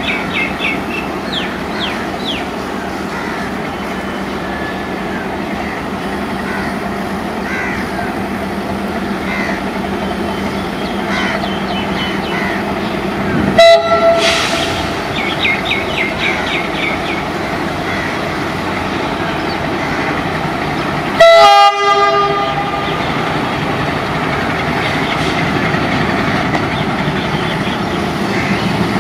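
A diesel-hauled passenger train running, with a steady engine hum and rail noise. The locomotive horn sounds two short blasts, one about halfway through and one about three-quarters through.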